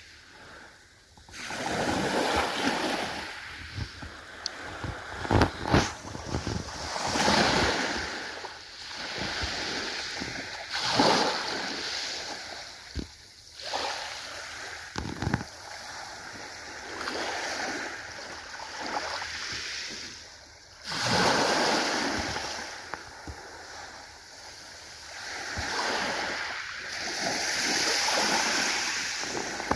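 Ocean waves breaking and washing in, the surf swelling and falling back every few seconds, with a few short thumps among them.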